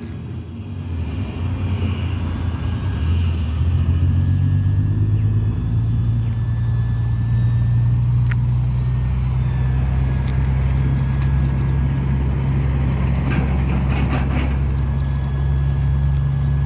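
Engine of a radio-controlled Cessna 182 model plane running steadily. It picks up in pitch a few seconds in and then holds, with a few brief clicks and some crackle later on.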